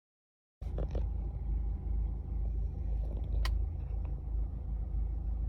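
Steady low rumble inside a parked car's cabin, starting about half a second in, with a single sharp click a few seconds later.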